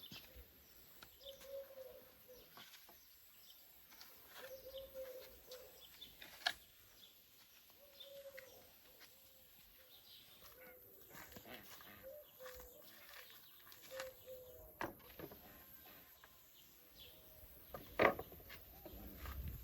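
Faint short animal calls repeating every second or two, with a few sharp knocks scattered through; the loudest knock comes near the end.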